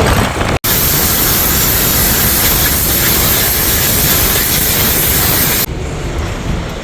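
A 2020 Freightliner Cascadia semi truck's engine running, with a loud, steady hiss over it that stops abruptly near the end.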